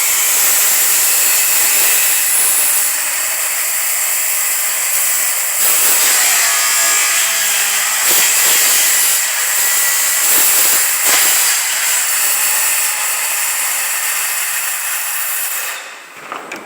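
Circular saw ripping through plywood, running steadily under load with brief dips, then switched off near the end, followed by a couple of light knocks.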